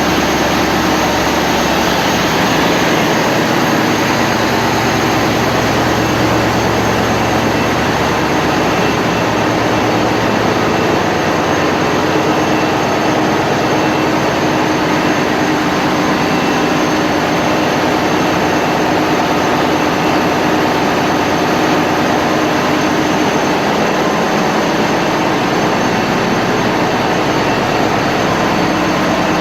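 Mitsubishi S8U-C2 MPTK marine diesel engine running steadily after its periodic maintenance, a loud, even, unbroken engine noise.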